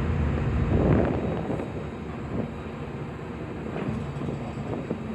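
Car ferry's engine running with a low, steady drone. There is a louder rushing swell about a second in, then the drone settles quieter.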